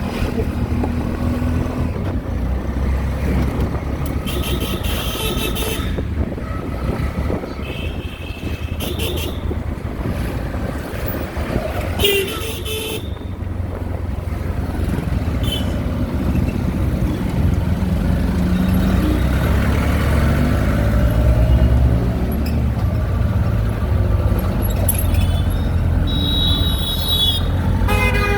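Auto-rickshaw engine running in street traffic, with vehicle horns honking in several short bursts spread through, the last run of beeps near the end.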